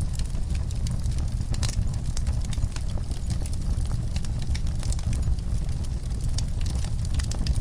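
Wood fire burning in a fireplace, crackling and popping with many small, irregular snaps over a steady low rumble.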